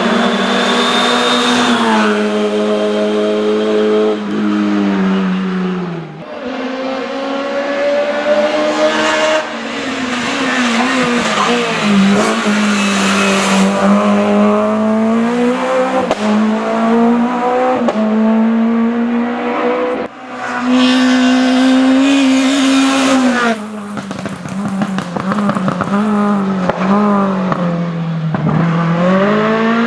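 Race car engine revving hard under load, its pitch climbing through the revs and dropping sharply several times as the driver lifts, shifts and brakes for corners.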